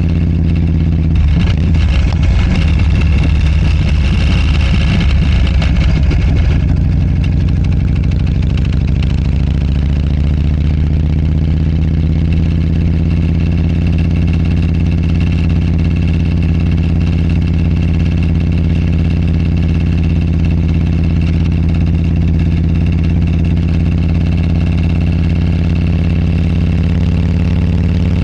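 Motorcycle engine running steadily under way. From about one to six seconds in a rapid rattle rides over it, which the uploader puts down to the lavalier microphone's clip rattling.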